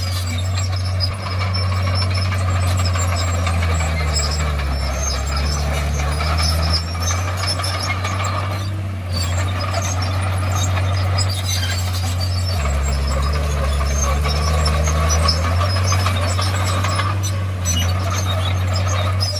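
Komatsu D51PX crawler bulldozer's diesel engine running hard with the tracks clattering. The engine note dips twice, about four seconds in and again about twelve seconds in, each time for a few seconds.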